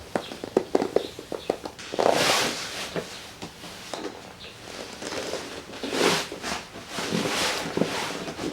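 Folding camp cot being weighted and shifted on: a quick run of small clicks and creaks from the frame, then a few broad rustling swishes of the fabric bed.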